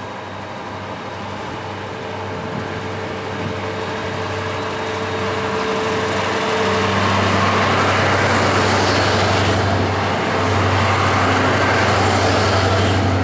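Freight train of covered cereal hopper wagons rolling past behind a diesel locomotive: a steady low hum under wheel-on-rail rolling noise that grows louder through the passage.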